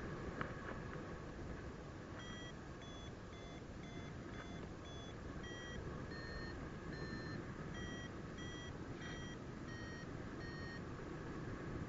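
Paragliding variometer beeping, about two short beeps a second whose pitch shifts up and down, the audio tone that signals the glider is climbing in lift. Steady wind noise runs underneath.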